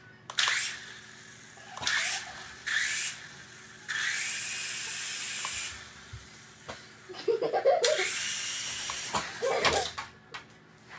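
Small toy helicopter's electric motor and rotor whirring in four bursts of one to two seconds each, spinning up and cutting off between them, with a little laughter near the end.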